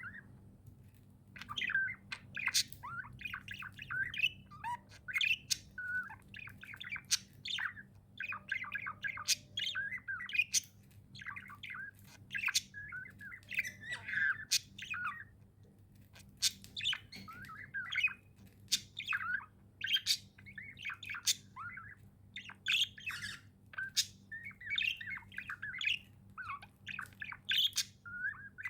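Pet budgerigars chirping and warbling continually, with short squawks and quick rapid calls.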